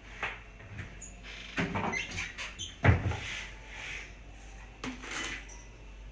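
Kitchen containers and utensils being handled: scattered light knocks and rustles, with one heavier thump about three seconds in.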